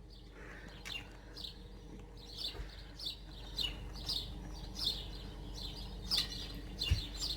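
Wild garden bird chirping, a string of short high chirps, about one or two a second. A soft low knock near the end.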